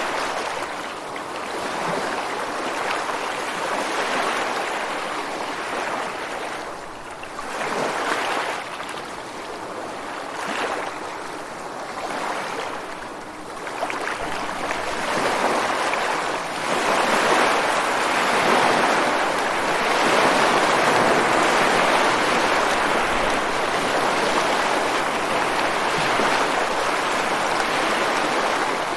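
Ocean surf breaking and washing over a rocky beach: several separate surges in the first half, then a longer, louder rush of white water that runs on through the rest.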